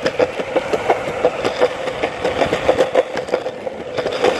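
An engine or motor running with a rapid, even pulsing, about six beats a second.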